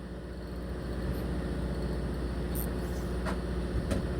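Fishing boat's machinery running at a steady low hum, with two faint clicks about three and four seconds in.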